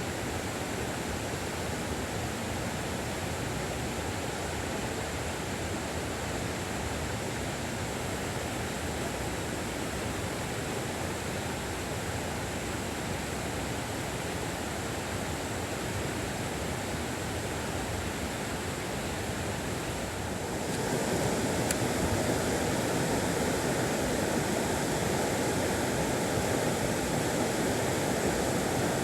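Mountain stream water rushing steadily, jumping louder about two-thirds of the way through.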